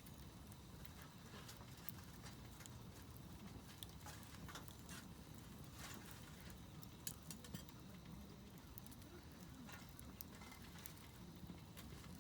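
Wood campfire crackling softly, with small irregular pops and snaps over a low steady rumble.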